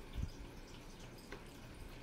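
Close-up eating sounds: wet chewing and mouth clicks, with a soft low thump just after the start.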